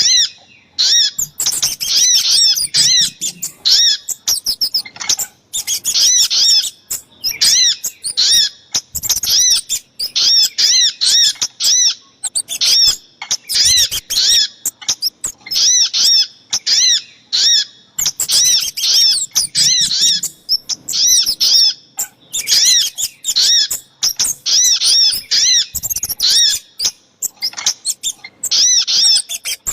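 Bird-lure recording of small forest birds calling, the sogok ontong (spiderhunter) call combined with the kemade: short high notes repeated in quick runs with brief pauses between.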